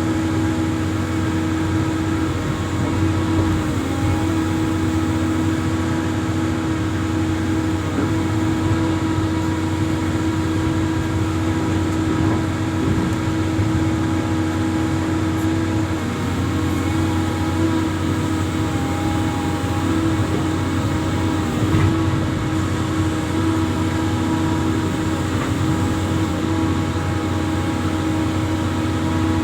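Amphibious excavator's engine running steadily, its pitch shifting slightly a few times as the load changes.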